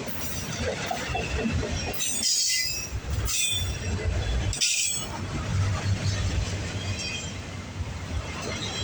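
CPKC automotive freight train rolling past, its cars rumbling steadily on the rails. Three short bursts of high-pitched wheel squeal come about two, three and a half, and nearly five seconds in.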